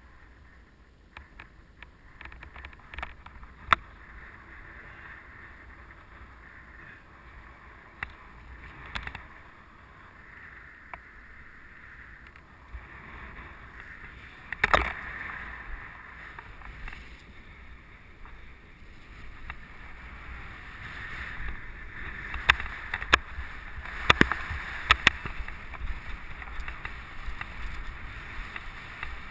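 Mountain bike on a dirt trail heard from a helmet camera: a steady rush of wind and tyre noise, broken by many sharp clicks and knocks as the bike rattles over bumps. The clicks and knocks come more often and louder in the second half.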